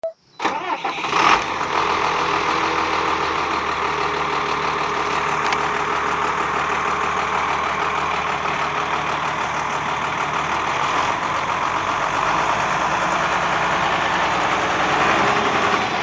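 Cummins diesel engine of a 1996 Ford Blue Bird school bus starting up about a second in, then idling steadily.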